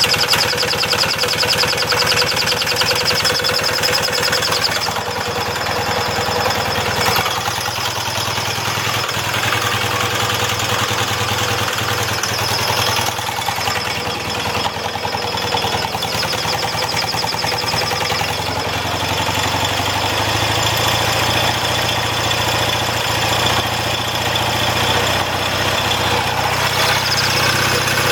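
1979 Yamaha XS650's air-cooled parallel-twin engine running, with its speed and level shifting slightly a few times.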